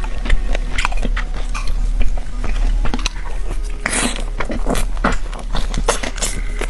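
Close-miked biting and chewing of fried chicken, with crisp crackling crunches coming in quick clusters over a steady low electrical hum.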